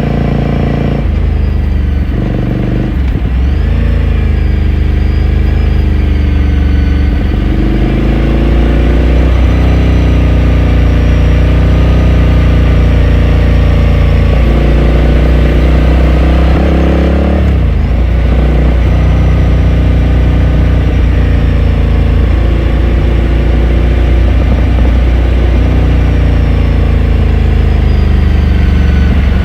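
Exhaust of a 2018 Ducati Scrambler Sixty2's air-cooled L-twin heard from the saddle while riding, its pitch climbing and easing with the throttle. It dips sharply and recovers, as at a gear change, about three seconds in and again about seventeen seconds in.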